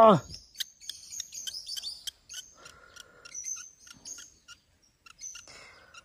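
Faint, high-pitched bird chirps and tweets with scattered small clicks, following the tail of a person's cry of pain at the very start.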